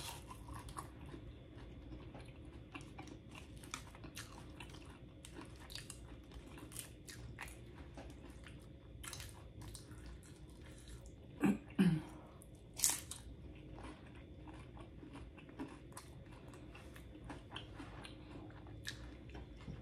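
Close-miked crunching and chewing of tortilla chips from loaded nachos: many small crisp bites and mouth clicks. About halfway through come two brief hums of the voice, followed soon after by one sharper crunch.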